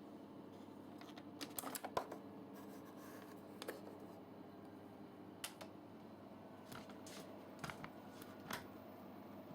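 Scattered light clicks and taps of objects being handled, about half a dozen, the loudest about two seconds in, over a faint steady hum.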